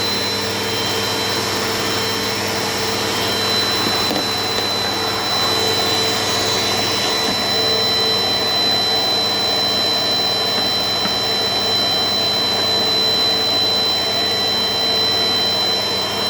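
Compact Dirt Devil Dynamite Plus vacuum cleaner running steadily, its motor giving a constant high whine over the rush of air.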